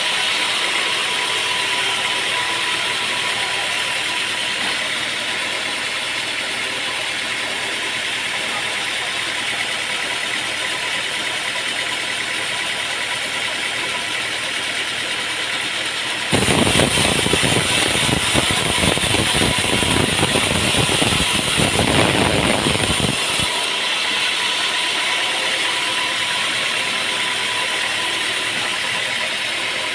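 Sawmill machinery running steadily with an engine-like drone, then a louder, rougher stretch for about seven seconds past the middle before it settles back to the steady running.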